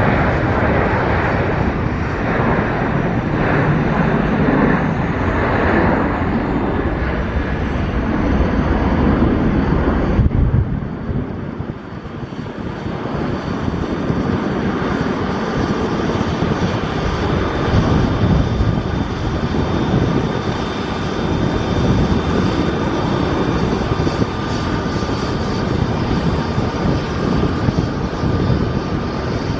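Boeing 737 jet engines running loud with a dense rushing noise. The noise dips about ten seconds in, then builds again with a faint steady whine over it.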